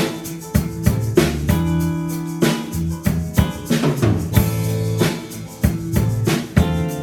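Live rock band playing, with a drum kit's bass drum and snare beating under sustained bass and chord tones.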